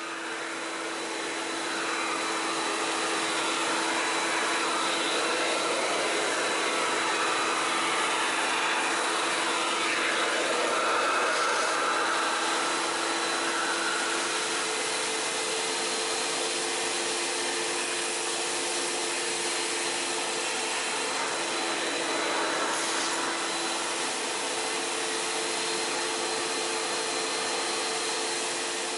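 Kärcher Puzzi 100 spray-extraction carpet cleaner running, its vacuum motor giving a steady hum and hiss as the floor nozzle is worked over the carpet. The pitch of the hum shifts slightly about halfway through.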